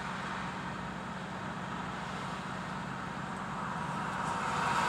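Steady engine drone and road noise heard from inside a semi-truck's cab while it drives, getting slightly louder near the end.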